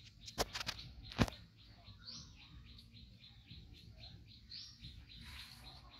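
Birds chirping in the background, with small rising chirps now and then. Two sharp clicks sound about half a second and a second in.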